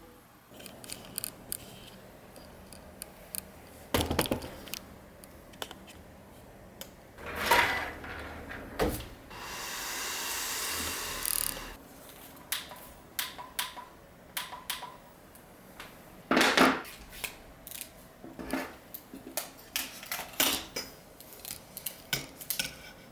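Assorted clinks, knocks and clatter of hard objects being handled, with a steady hiss lasting about two seconds near the middle.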